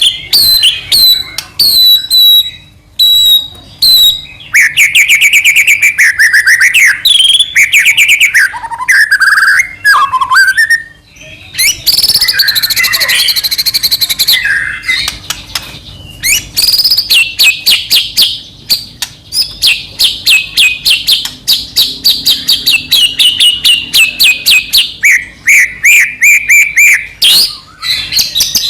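White-rumped shama (murai batu) in loud, continuous full song: a few separate down-slurred whistles, then varied warbling phrases, a harsh scratchy passage about halfway, and a long run of rapid repeated notes.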